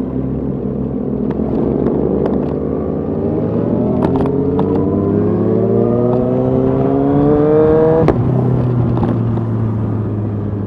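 Motorcycle engine pulling up through the revs, its pitch rising steadily for about five seconds before a sharp break near the end as the throttle closes or a gear is shifted, over a steady low engine hum and wind noise.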